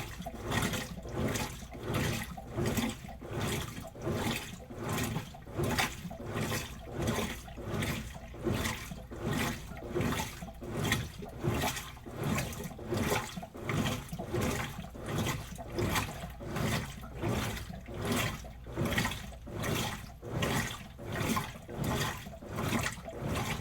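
Washing machine washing a load of clothes, the water and clothes sloshing in a steady rhythm of swishes about three every two seconds.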